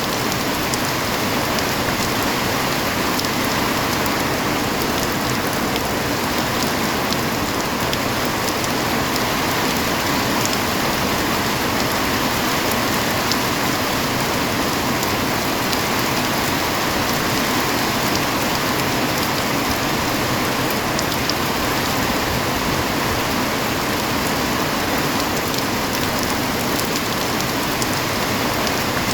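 Heavy rain falling steadily, a dense even hiss with fine scattered drop ticks on surfaces.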